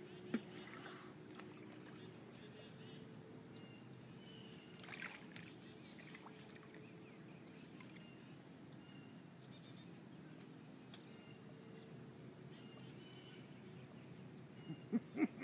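Quiet outdoor ambience with a bird giving short, high-pitched chirps every second or two, over faint sloshing of water around people wading.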